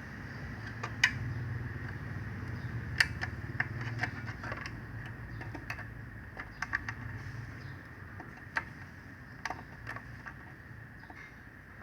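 Wire-harness connectors being pushed into their sockets on a power amplifier's circuit board: scattered sharp plastic clicks, several close together around the middle, over a low steady hum.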